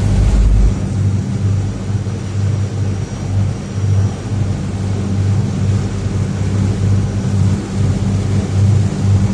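Tour boat's engine running steadily on board, a loud low hum with an uneven pulse. A deeper rumble at the start stops under a second in.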